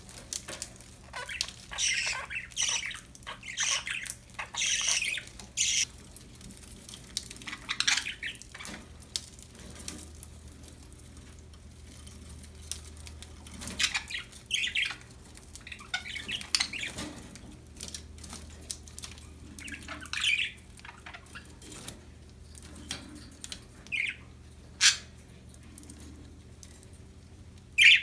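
Pet budgerigars chirping and squawking in short, high bursts with quieter pauses between, mixed with small clicks and rustling.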